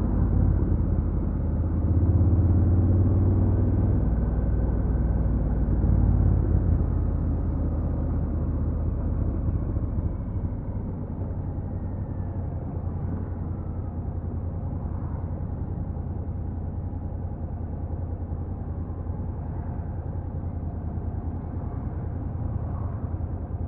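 Honda NC750X motorcycle's 745 cc parallel-twin engine running through its stock exhaust. It is louder and stronger over the first several seconds, then settles to a steady, quieter running from about ten seconds in.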